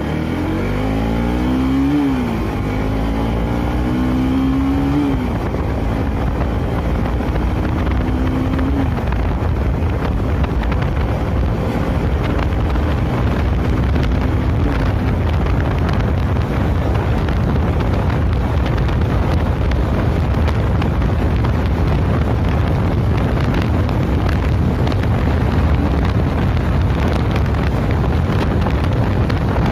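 Bajaj Pulsar NS motorcycle engine accelerating hard through the gears, its pitch climbing and dropping at each upshift, about five times in the first fifteen seconds. As speed builds, heavy wind rush on the microphone grows and largely drowns the engine.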